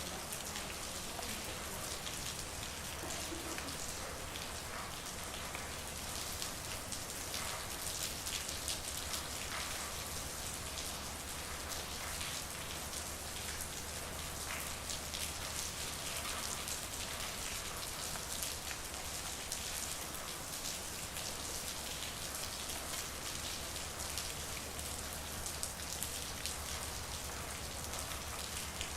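Steady rain falling on a street, many small drops pattering on hard surfaces, with a faint low hum underneath.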